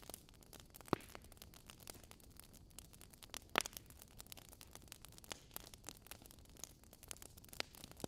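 Wood logs burning in a fireplace, crackling with a steady scatter of small irregular pops and a few louder snaps, the sharpest about a second in and around the middle.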